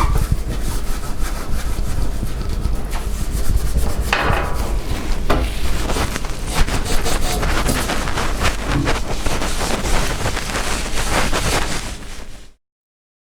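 A damp cleaning cloth scrubbed hard back and forth over a greasy stove top, a continuous rough rubbing and scratching that works off dried grease; the sound cuts off suddenly near the end.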